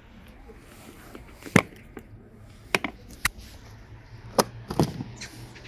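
A handful of sharp clicks and knocks at irregular intervals, over a faint steady low hum.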